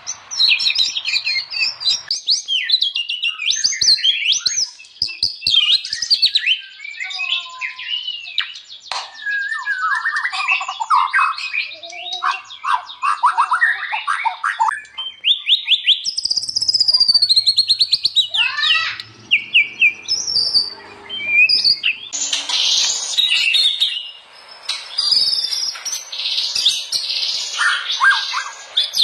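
White-rumped shama singing a loud, fast and varied song of whistles, trills and rapid chattering phrases, with a faint hiss behind it in the later part.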